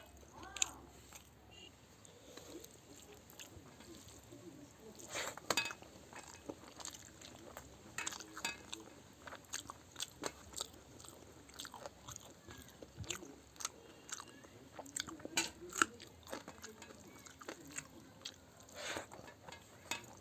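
Close-up chewing and biting of a rice and dried-fish curry meal with fried fish and greens: wet mouth clicks and smacks with crunches throughout. The loudest crunches come about five seconds in, around eight seconds, and near the end.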